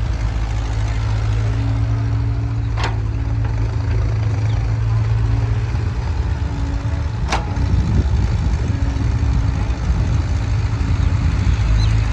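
Heavy diesel engine running steadily at low revs, with two sharp knocks about four and a half seconds apart.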